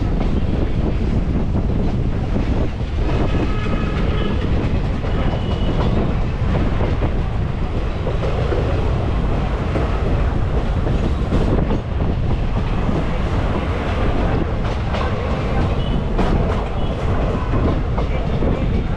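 Express passenger train running along the track, heard from aboard its coach: a loud, steady rumble of wheels and rushing air, with the wheels clicking over rail joints, sharper and more frequent in the second half.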